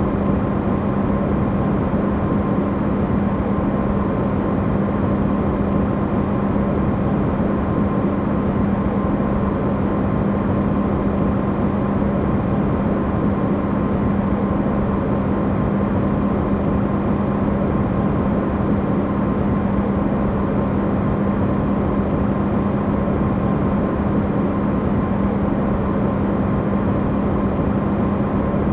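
Amplified recording of an Electrolux refrigerator running: a steady hum over an even rushing noise, unchanging throughout.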